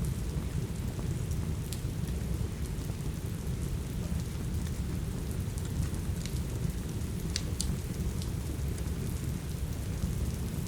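Steady rain over a deep, even low rumble, with a few sharp crackles and pops from a wood fire, two of them close together about seven seconds in.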